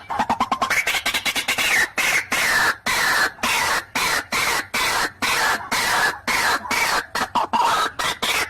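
White-breasted waterhen (ruak-ruak) giving its harsh, repeated territorial call, a rapid run of short notes at a few per second: the call used to lure rival waterhens.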